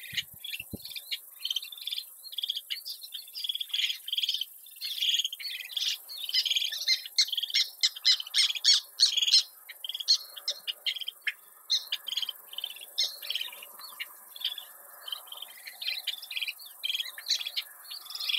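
Birds calling in a dense run of short, high chirps with many calls overlapping, busiest around the middle.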